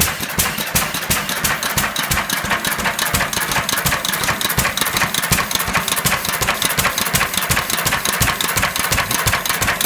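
1926 International Harvester 6 hp Model M single-cylinder hit-and-miss engine running just after starting, a rapid, even clatter of firing and valve gear. Its fuel is being set to clear rich black smoke and get clean combustion.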